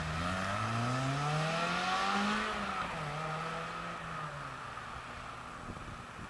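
Lotus Elise four-cylinder engine accelerating away, its pitch rising steadily for about two and a half seconds. The pitch drops at a gear change, then the engine pulls on more steadily and fades as the car recedes.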